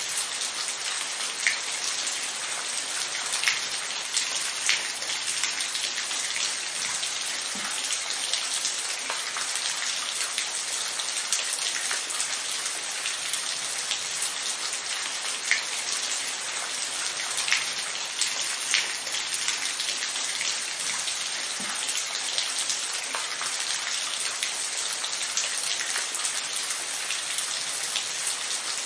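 Steady rain falling on a surface: an even hiss, with individual heavier drops ticking here and there.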